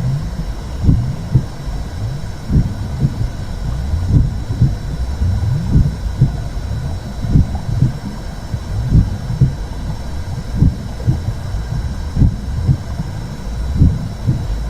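Womb sound: a muffled low whooshing rumble with a slow double heartbeat pulsing through it, a pair of beats about every second and a half. Played to soothe a baby to sleep.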